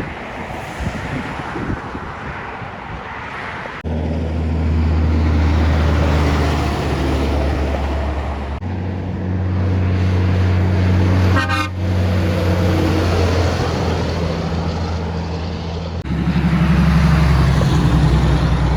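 Trucks passing on the road, with long, steady air-horn blasts sounded over the traffic noise in several short clips one after another.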